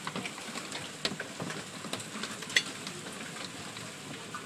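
Hailstorm: large hailstones coming down as a steady hiss, with scattered sharp ticks and cracks of stones striking hard surfaces; one louder crack about two and a half seconds in.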